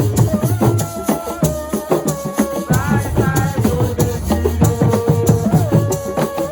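Senegalese assiko music: fast, dense percussion with a shaker rattle, over a low bass and a shifting melodic line.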